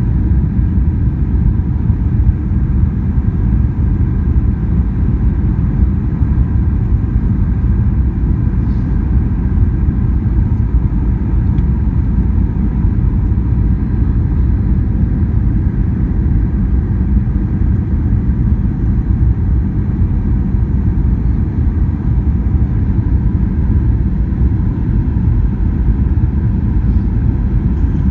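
Steady airliner cabin noise: the low rumble of the jet engines and airflow heard from inside the passenger cabin, with no change in level.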